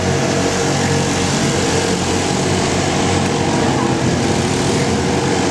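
Small engine of a bumper boat running steadily.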